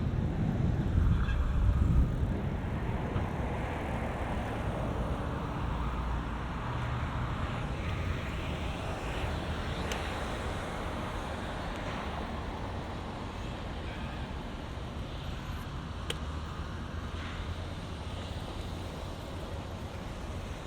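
Road traffic noise: a steady rush of passing cars. Wind buffets the microphone, loudest in the first two seconds.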